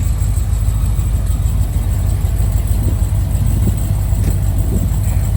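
A car engine idling with a steady, deep rumble.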